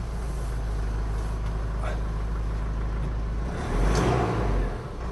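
Isuzu 4JJ1T 3.0-litre four-cylinder turbodiesel running shortly after being started, with a steady low rumble. It gets briefly louder about four seconds in.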